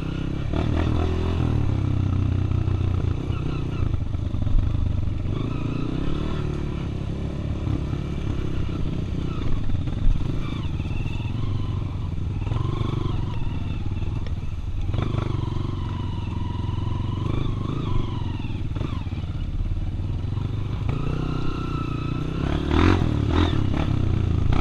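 Dirt bike engine running on a trail, its revs rising and falling repeatedly, with a few sharp knocks and rattles.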